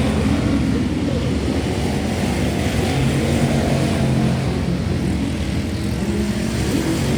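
Race car engine running on track, holding a fairly steady pitch with slight rises and falls.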